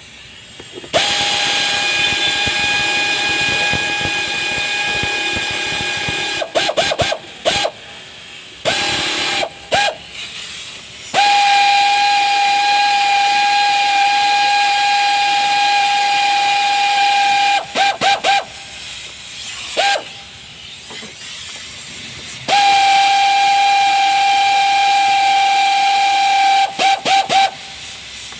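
Compressed-air blow gun blasting with a loud whistling hiss: three long blasts of several seconds each, with clusters of quick short trigger taps between them.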